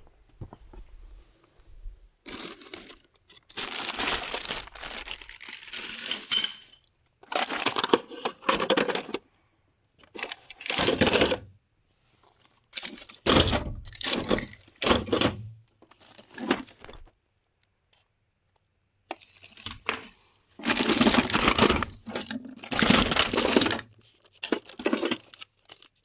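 Rummaging through a stock of small fittings and parts by hand: irregular bursts of handling noise with short pauses between them.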